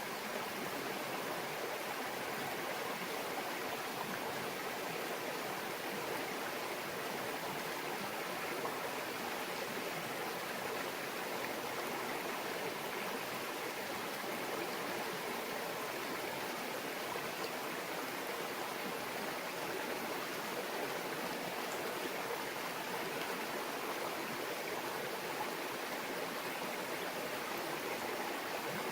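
Stream babbling steadily, an even, unbroken rush of flowing water.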